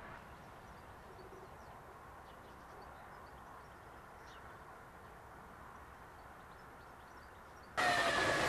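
Quiet outdoor ambience with faint, scattered bird chirps, then about eight seconds in a TGV Duplex double-deck high-speed train passing close starts abruptly: a loud rush of wheel and air noise with a falling whine.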